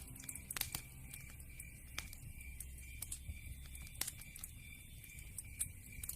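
Wood fire crackling, with irregular sharp pops and snaps, the loudest about half a second in and about four seconds in, over a low steady rumble of burning.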